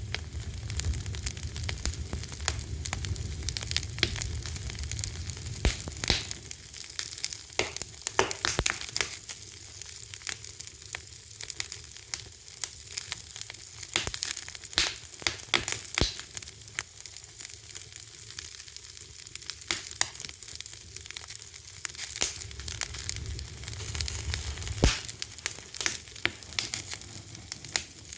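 Fire crackling, with frequent sharp pops and snaps over a steady hiss; a low rumble swells at the start and again near the end.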